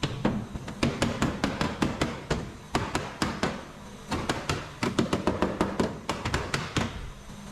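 Quick runs of sharp hammer taps on metal, several a second, with a short pause about four seconds in; typical of tapping out a dent in a car body panel.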